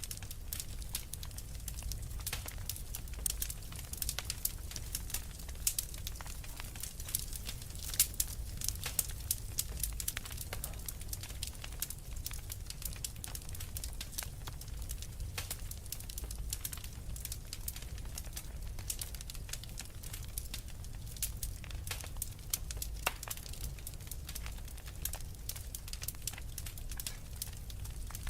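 Wood logs burning in a fireplace, crackling with many irregular sharp pops over a low steady rumble of the flames; the loudest pop comes about eight seconds in.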